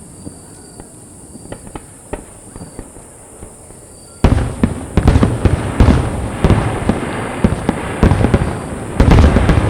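Aerial fireworks shells bursting: a few scattered pops, then about four seconds in a sudden dense rapid-fire barrage of booms and crackle, with another loud cluster near the end.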